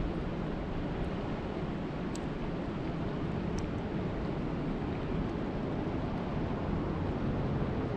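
Steady rushing of lake water with wind, heaviest in the low rumble, with a couple of faint short high ticks about two and three and a half seconds in.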